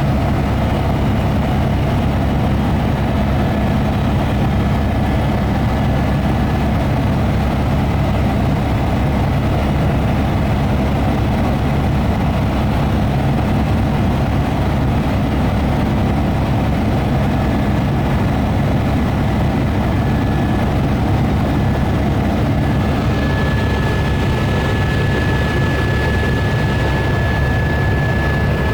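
Helicopter in flight: a loud, steady drone of rotor and turbine with a rapid low beat of the blades. A thin high whine grows louder about 23 seconds in.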